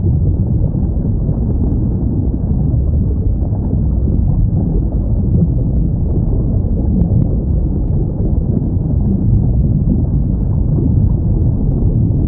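Steady low rumble of underwater ambience, with a faint whale call gliding in pitch about six seconds in.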